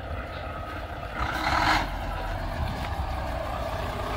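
Semi truck engine running with a steady low rumble, and a short burst of hiss about a second and a half in.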